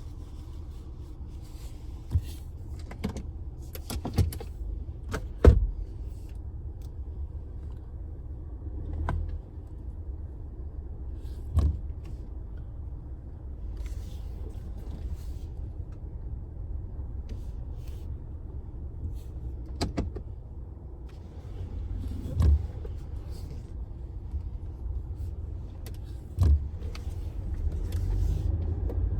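Car engine running at idle as a steady low rumble, with sharp clicks and knocks every few seconds. The engine gets a little louder near the end.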